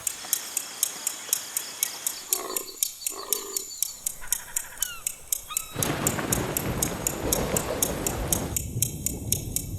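A steady rhythmic ticking, about four a second, under two short animal calls a couple of seconds in, then about three seconds of loud rushing noise that starts and stops abruptly.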